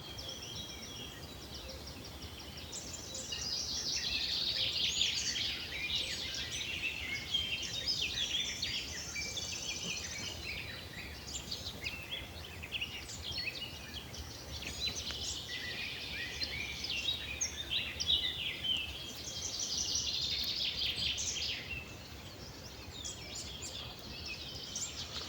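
Morning chorus of several songbirds singing and chirping over one another, busiest from about three seconds in until near the end, where it thins out.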